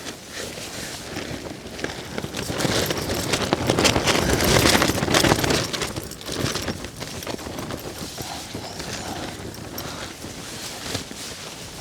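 Dense crackling and rustling from the Dyneema (DCF) fabric of an MLD Duomid tent as it is handled and tensioned during pitching, with small knocks among it. It is loudest for a few seconds in the middle.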